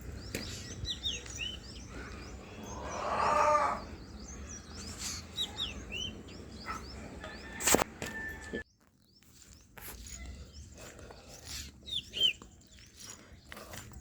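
Small birds chirping on and off, with a louder drawn-out sound that swells and fades about three seconds in and a sharp click a little past halfway.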